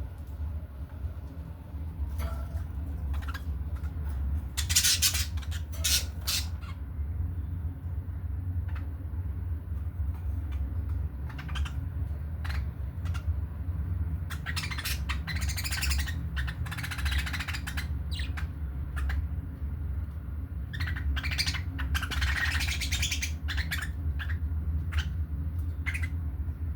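Budgerigars chattering and squawking in scattered short calls, with louder bursts of chatter about five seconds in, in the middle and near the end, over a steady low hum.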